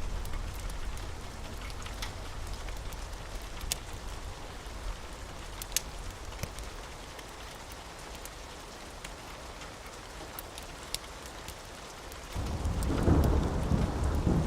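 Steady rain with scattered sharp fire crackles. A low rumble of thunder fades early on, and a loud roll of thunder breaks in near the end.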